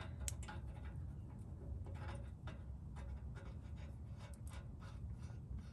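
Faint, scattered light clicks and taps of small metal parts being handled while fitting an exhaust test pipe, over a low steady hum.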